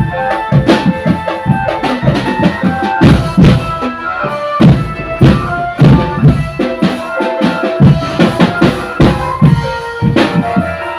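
Street drum band playing: a dense beat of bass and snare drums under a steady melody line.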